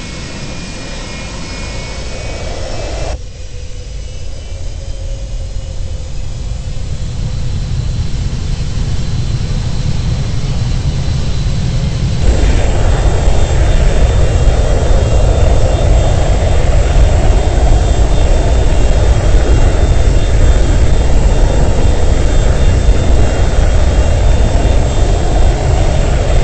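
Boeing 737-200's Pratt & Whitney JT8D jet engines running with a high whine, growing steadily louder, then stepping up sharply about twelve seconds in and holding loud and steady.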